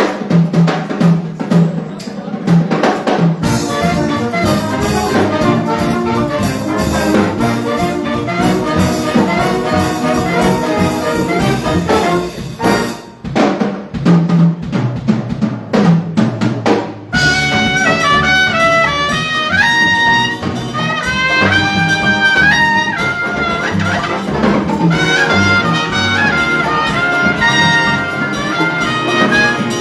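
Student jazz big band playing an up-tempo chart, with trumpets, trombones, saxophones and rhythm section. A little past halfway the brass come in with held high notes.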